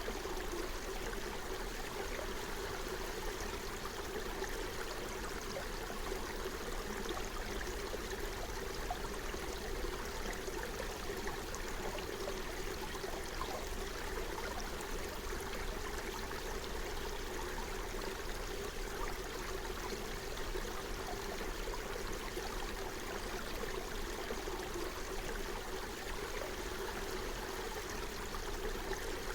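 A forest stream running: a steady rush and babble of flowing water.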